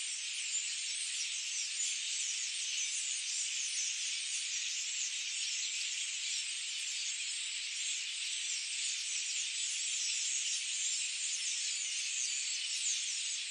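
Dense, unbroken chorus of many small birds chirping at once, a high-pitched wash of countless short falling chirps with no low sounds under it.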